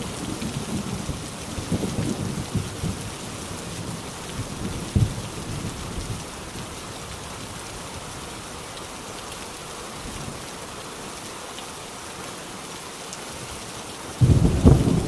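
Steady heavy rain on a tin roof, with a rumble of thunder dying away over the first few seconds. Another loud thunderclap breaks in suddenly about a second before the end.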